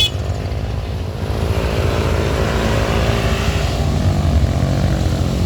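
Motor vehicle engine running steadily over a low rumble.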